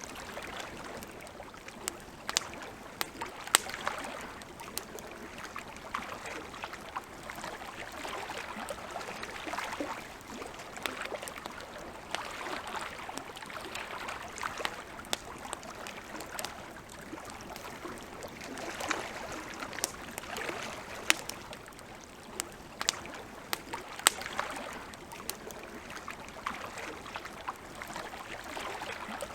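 Campfire crackling, with frequent sharp irregular pops and snaps over a soft steady rushing that swells and eases every few seconds.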